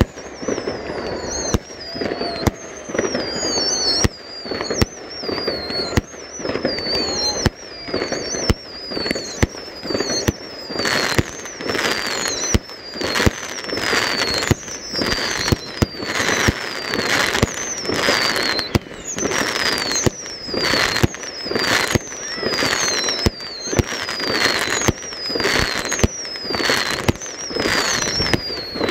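Fireworks barrage firing shot after shot, about one a second, each with a high falling whistle. The shells burst into crackling stars, and the crackle thickens about ten seconds in.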